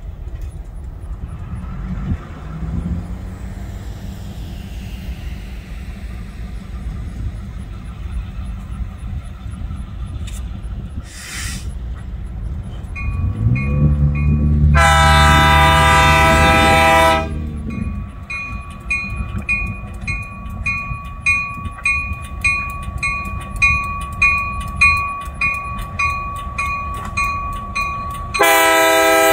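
Diesel freight locomotive rumbling as it approaches, with one long horn blast about halfway through and another starting near the end. Between the blasts comes a regular clacking with a thin steady ringing tone.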